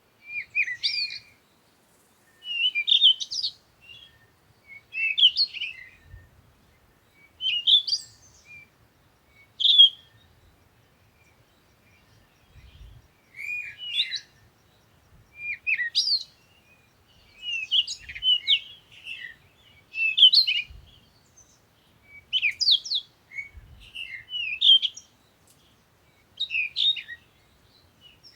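A small songbird singing short twittering phrases of quick chirps, one phrase roughly every two seconds.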